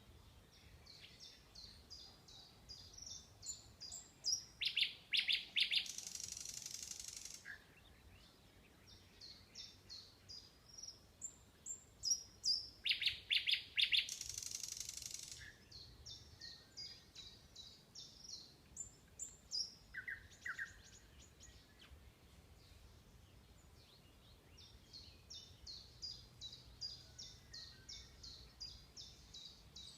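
Songbirds singing: repeated phrases of quick, high chirping notes. Twice, a louder run of rapid notes ends in a buzzy rattle, about five seconds in and again about twelve seconds in.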